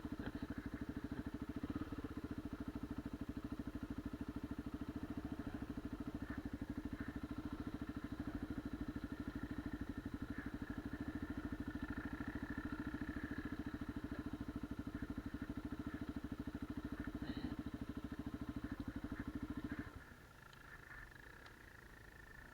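Enduro motorcycle engine idling steadily, then shut off abruptly near the end, leaving only a faint high background hum.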